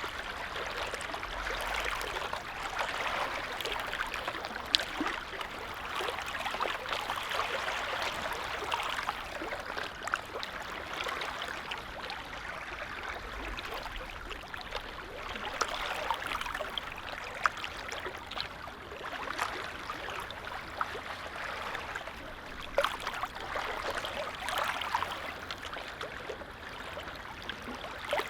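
Small lake waves lapping and splashing at the shore, a steady wash that swells and eases every few seconds.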